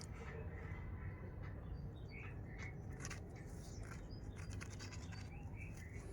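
A parrot chirping softly in short, scattered calls, with a few faint scratchy clicks over a low background hum.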